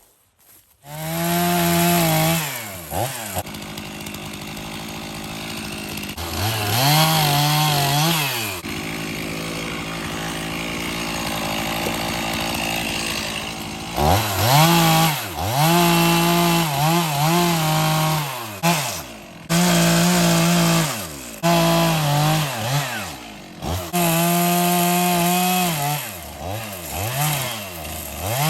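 Stihl two-stroke chainsaw starting up about a second in, then revved to full throttle and dropped back to idle again and again while working wood.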